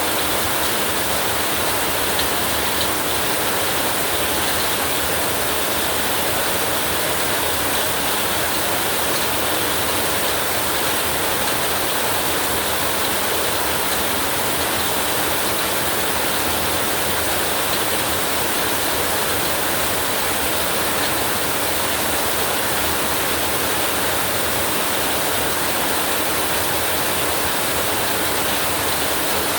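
Rain falling steadily: an even, unbroken hiss with no thunderclap or other sudden sound.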